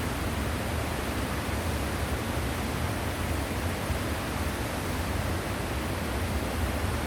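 Waterfall: water pouring and splashing into a pool in a steady, unbroken rush with a deep rumble underneath.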